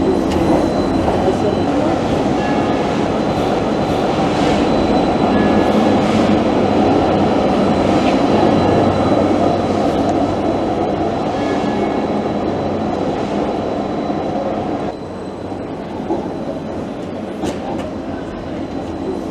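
Tram running on its rails: a steady rumble of wheels on track with scattered clicks and a faint high steady whine. The level drops abruptly about fifteen seconds in.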